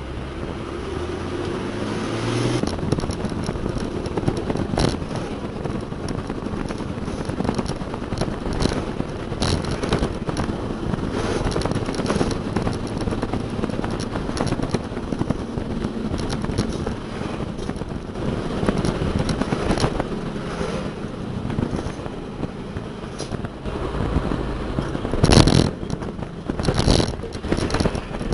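Heavy diesel machinery running, rising in pitch over the first two seconds, with scattered clanks and scraping throughout. Two loud, short bangs come near the end.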